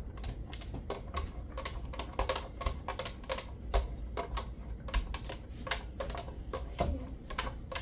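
Hot olive oil crackling in a frying pan: irregular sharp pops, several a second and unevenly spaced.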